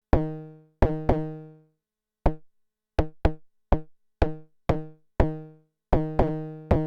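Arturia DrumBrute Impact's analog FM drum voice being triggered: a string of pitched electronic drum hits at uneven spacing, about a dozen. Some are cut off short and others ring out for nearly a second.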